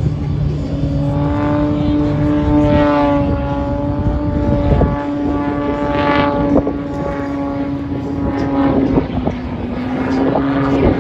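Propeller-driven airplane droning at a steady pitch, swelling louder briefly a few times.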